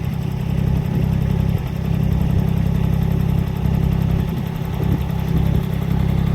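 An engine running steadily at an even idle, with a constant low drone.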